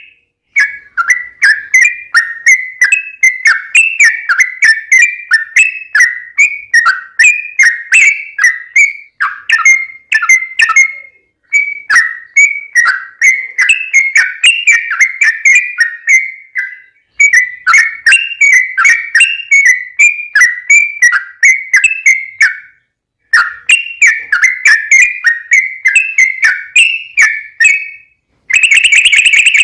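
Yellow-vented bulbul singing long, rapid runs of bubbling, chattering phrases, with short pauses between runs. Near the end, a louder, steady shrill note cuts in.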